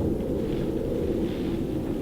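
Storm wind gusting over 35 knots through a sailboat's rigging: a steady low rumble with faint higher hissing.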